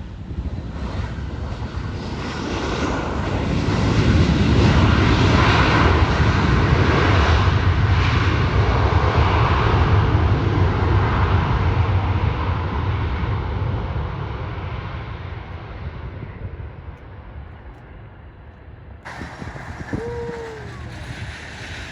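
Jet airliner passing by: its engine noise rumbles and hisses, swelling over the first few seconds, holding loud for several seconds, then slowly fading away.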